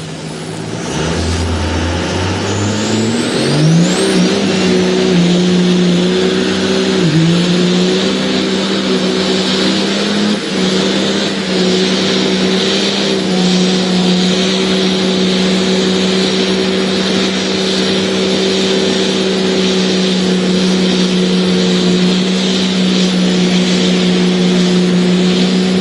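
Cummins diesel drag truck doing a burnout, tires spinning in the water box. The engine revs up over the first few seconds, dips briefly about seven seconds in, then is held at a steady high rpm over a constant hiss.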